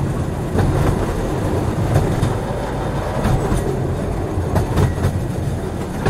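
A train running on the rails: a steady low rumble with irregular wheel clicks over the track.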